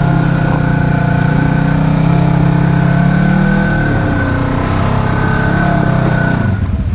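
Side-by-side UTV engine running steadily, with a thin, high steady whine over it. About six and a half seconds in, the whine stops and the engine sound drops.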